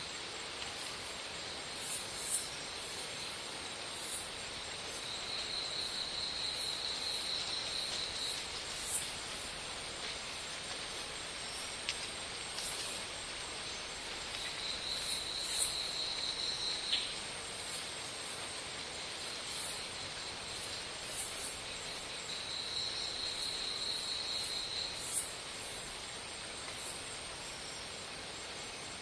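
Insects calling: a steady high whine under a buzzing trill that comes back about every eight seconds and lasts two to three seconds, with many short, very high chirps scattered through.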